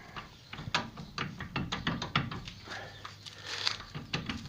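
Irregular metallic clicks and knocks of hand tools and brake parts as a brake caliper bracket is being unbolted and taken off, with a cluster of quick clicks in the middle.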